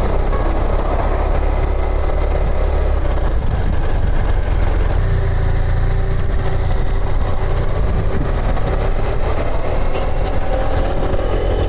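Motorcycle engine running steadily, with road and wind noise, heard from on the bike.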